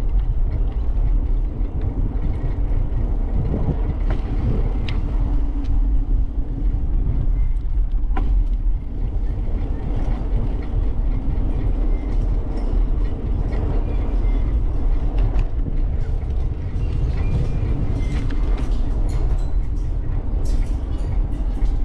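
Steady low rumble of wind buffeting the microphone of a camera on a moving bicycle, with tyres rolling on the path and scattered light ticks.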